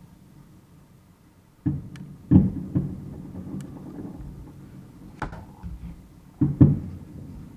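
Aerial fireworks shells bursting: a series of sharp bangs at uneven intervals, the loudest a close pair near the end, each trailing off in a low rumbling echo.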